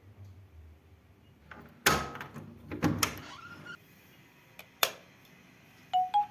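A few sharp knocks and clicks, the loudest about 2, 3 and 5 seconds in. Near the end a bright, marimba-like tune starts.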